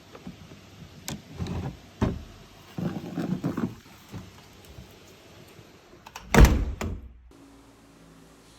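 A series of knocks and handling thumps, the loudest thump about six and a half seconds in.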